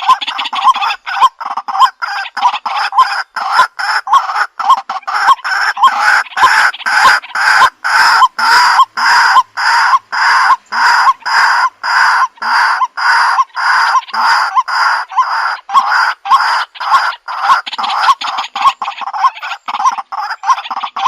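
White-breasted waterhen calling a loud, monotonous series of evenly spaced notes, about two a second.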